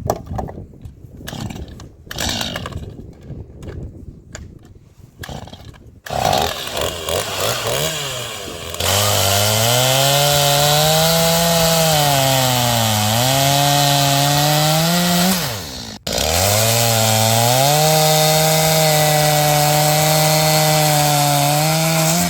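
Knocks and rustling, then a chainsaw starts up and cuts wood at full speed, its pitch sagging and recovering as it meets the load. It stops abruptly about two-thirds of the way in, starts straight back up and runs steadily.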